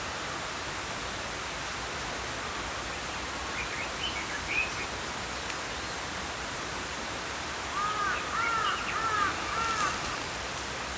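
Small brook flowing steadily, with birds calling over it: a few brief chirps about four seconds in, then a quick run of four or five short arched notes near the end.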